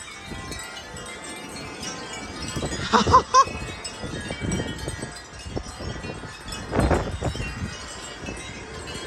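Wind chimes ringing continuously, their many tones clanging in strong, gusting wind, with gusts buffeting the microphone about three and seven seconds in.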